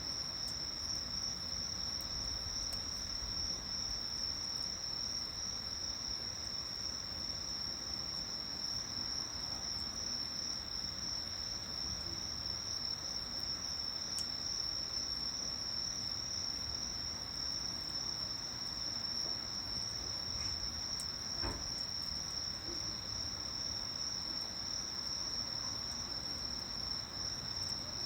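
Insects singing in one continuous high-pitched trill, with a few faint crackles from a small wood fire.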